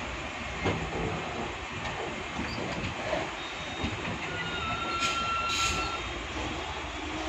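Passenger train coaches rolling slowly past on the adjacent track, the steel wheels rumbling and knocking over the rails. About four and a half seconds in, a thin wheel squeal holds for a second or so.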